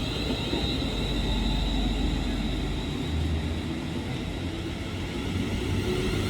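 Electric train running, heard as a steady rumble with a faint high whine that slowly falls in pitch.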